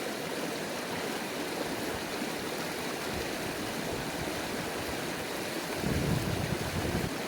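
Steady rushing of a river, with a brief low rumble about six seconds in.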